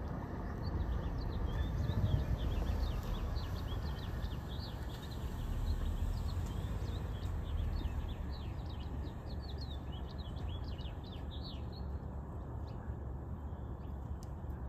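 Many short, high bird chirps in quick succession over a steady low rumble; the chirping stops about 12 seconds in.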